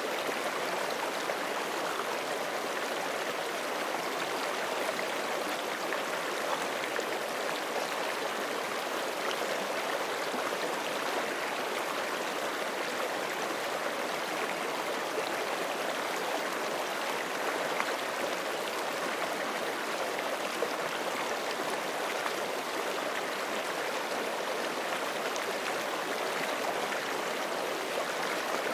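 Forest creek flowing steadily over rocks, a continuous rushing and gurgling of running water.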